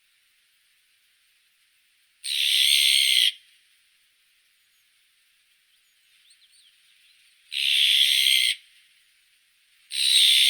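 Azure-winged magpie giving three harsh, raspy calls, each about a second long, with a few faint short chirps just before the second call.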